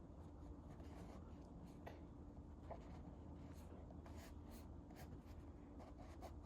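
A child colouring on paper: faint, irregular scratching strokes of a drawing tool against a steady low room hum.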